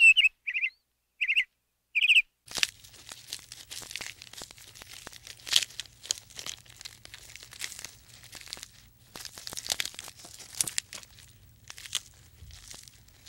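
A few short, high bird chirps, then a giraffe browsing: leaves and twigs rustle, crackle and tear in quick irregular snaps as it strips foliage.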